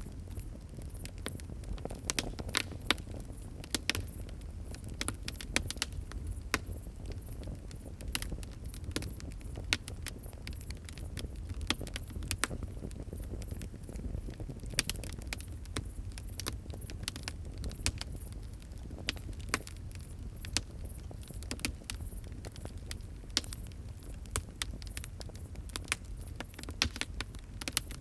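Fire crackling: dense, irregular sharp pops and snaps over a low steady rumble.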